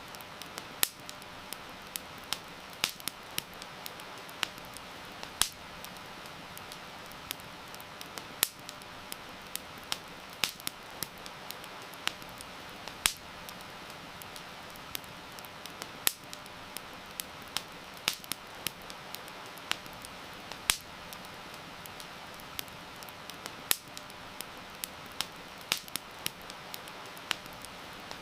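Wood fire crackling, with sharp pops coming irregularly, several every few seconds, over a steady hiss of heavy rain.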